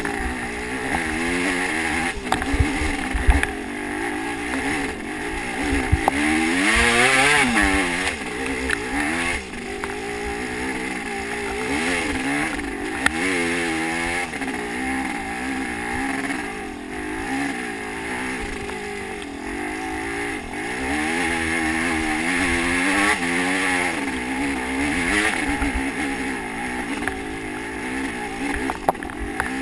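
Motocross dirt bike engine being ridden, revving up and dropping back again and again as the throttle opens and closes. A few sharp knocks are mixed in.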